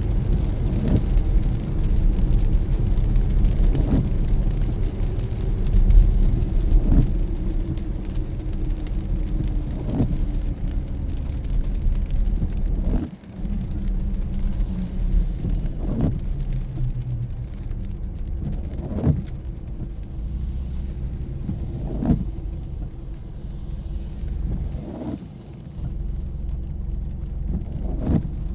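Car driving in the rain, with steady road and engine rumble and a windshield wiper sweep about every three seconds.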